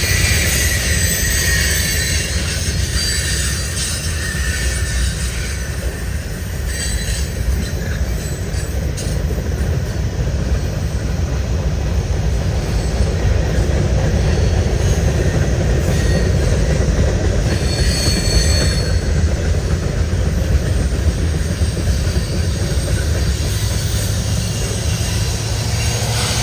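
Canadian National freight train's cars rolling past: a steady rumble of steel wheels on rail with a few brief high wheel squeals. Near the end a rising engine tone comes in as the mid-train DPU locomotives arrive.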